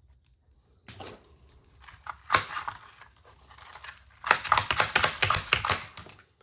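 Small hammer tapping a tight-fitting part into an RC car: a single tap about a second in, a few more at around two and a half seconds, then a quick run of light taps, about six a second, for nearly two seconds.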